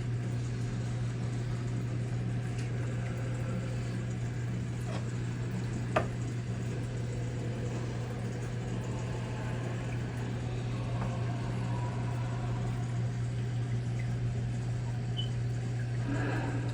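Aquarium filter or air pump running: a steady low hum with a constant wash of bubbling water, and one sharp click about six seconds in.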